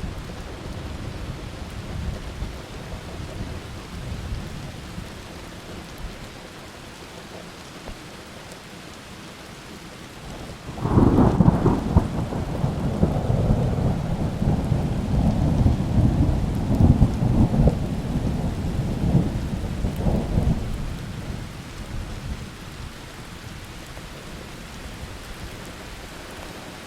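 Steady rain with thunder. A low rumble fades over the first several seconds, then about eleven seconds in a sudden loud thunderclap breaks and rolls for about ten seconds before dying away under the rain.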